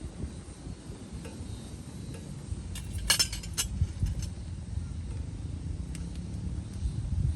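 A short cluster of light metallic clinks and jingling about three seconds in, over a steady low rumble.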